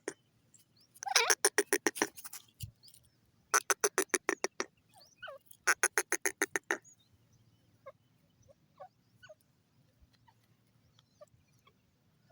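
Dakhni teetar, a francolin, calling in three loud runs of rapid, evenly spaced shrill notes, each about a second long, followed by faint scattered chirps.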